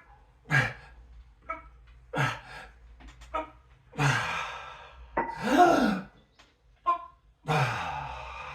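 A man breathing hard during exercise: a series of forceful exhales, and about halfway through a voiced grunt of effort that rises and falls in pitch.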